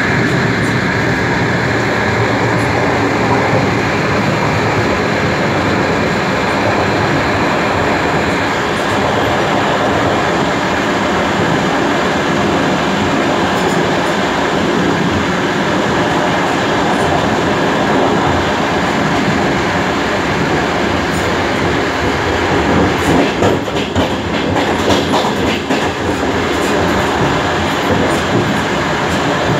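DR1A diesel railcar running along the line: a steady loud rumble of the train with its wheels clattering over the rail joints, and a rougher patch of knocks and clatter about three-quarters of the way through.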